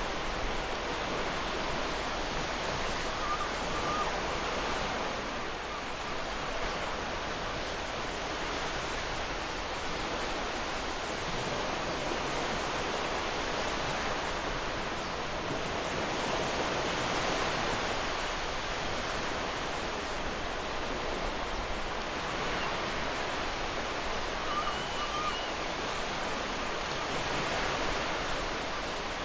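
Ocean surf washing onto a sandy beach: a continuous rush of breaking waves that swells and eases slowly. Two faint short chirps sound over it, a few seconds in and near the end.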